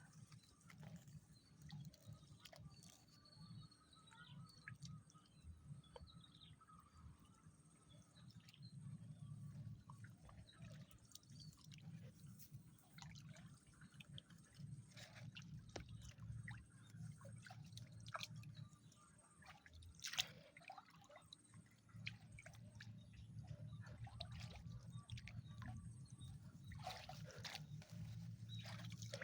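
Near silence: faint low background hum with scattered small clicks and rustles, and one sharper click about twenty seconds in.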